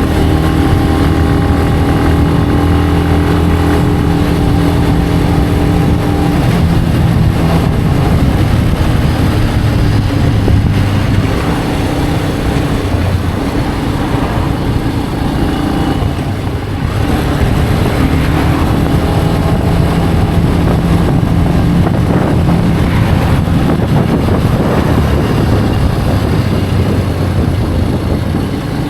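Benelli BN125 motorcycle's single-cylinder 125 cc engine running under way, over a steady rushing noise. Its note holds even, wavers and dips about halfway through, then settles back to a steady pitch.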